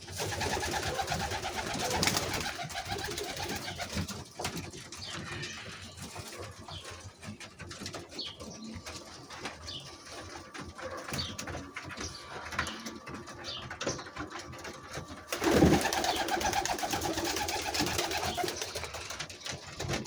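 Penned birds making low cooing calls in two louder stretches, one at the start and one about three-quarters of the way through. Quieter scattered calls and small clicks and scuffs fall in between.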